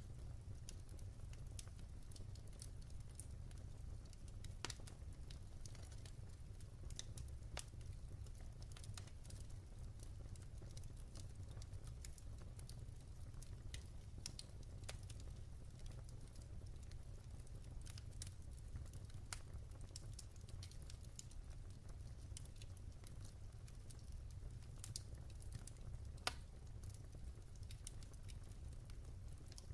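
Firewood burning in a fireplace, crackling with irregular sharp pops over a low steady rumble; one louder pop about 26 seconds in.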